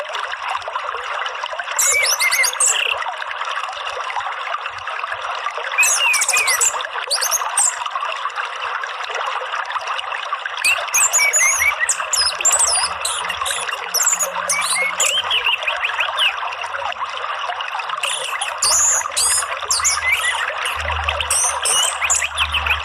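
Steady flowing water with bird song laid over it: short phrases of quick, high chirps and trills come every few seconds. This is a therapy sound track played to a caged songbird.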